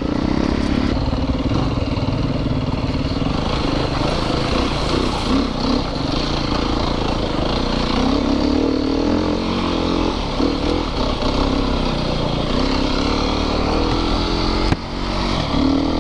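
Yamaha YZ450FX dirt bike's single-cylinder four-stroke engine running while riding, its pitch rising and falling with the throttle. A sharp knock near the end, with a brief dip in the engine sound.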